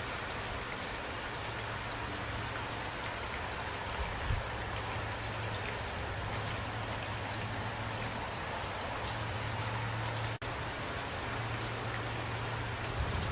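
Steady rain falling, with scattered drops ticking on a surface and a low hum that fades in and out beneath it. The sound cuts out for an instant about ten seconds in.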